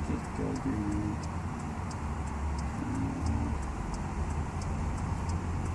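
Truck engine idling with a steady low rumble heard from inside the cab, with a quick, regular ticking about three times a second.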